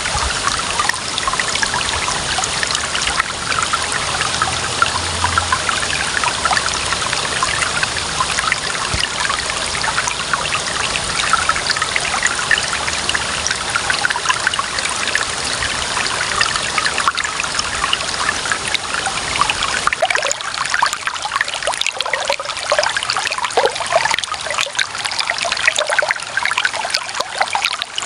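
Clear running water trickling and splashing steadily, with many small splashes. About two-thirds of the way through, the low rumble drops away and separate gurgles become more distinct.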